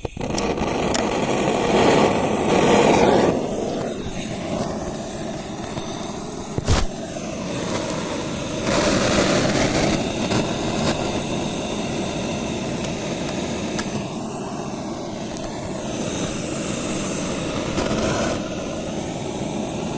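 Old David Brown tractor engine running steadily after a cold start that needed a flame at the air intake. About seven seconds in there is one sharp knock.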